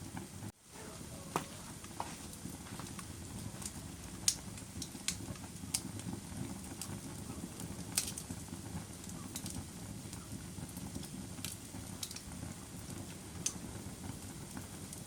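Wood fire burning in a fireplace: a steady low rumble of flames with irregular sharp crackles and pops scattered throughout. The sound drops out briefly about half a second in.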